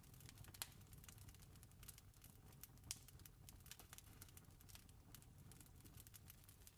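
Faint wood fire crackling, with irregular small pops and two sharper snaps about half a second and three seconds in, over a low steady rumble.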